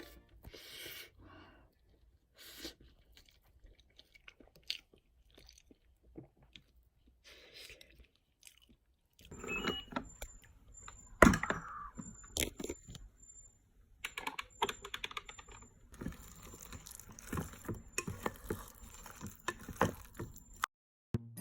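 Eating sounds: chewing, with short clicks and scrapes of utensils against dishes, the sharpest click about halfway through.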